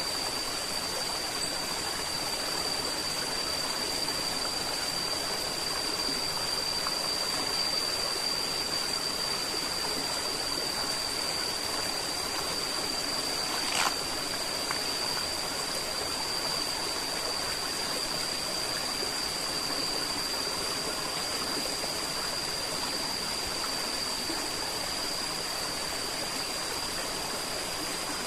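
River water flowing steadily, with a thin steady high-pitched tone above it and a single short click about halfway through.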